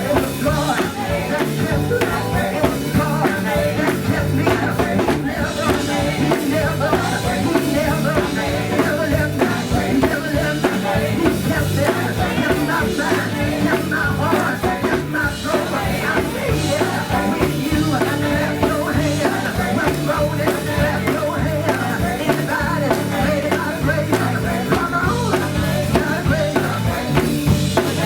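Live gospel band music with singing, loud and unbroken.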